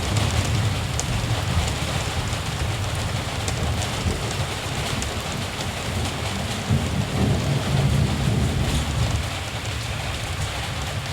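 Steady rain falling, with scattered drops ticking, over a low rumble of distant thunder that swells about halfway through.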